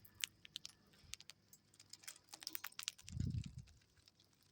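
Cockatiels pecking and nibbling at a seed treat: quick, irregular beak clicks and small crunches. A dull low thump swells briefly about three seconds in.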